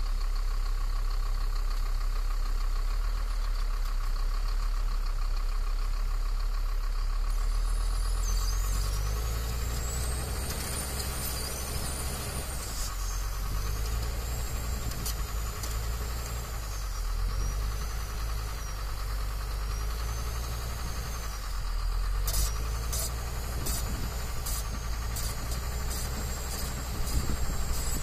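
A heavy vehicle's engine running steadily with a low, even rumble. From about eight seconds in, a faint high whine wavers up and down over it, and near the end several sharp clicks sound.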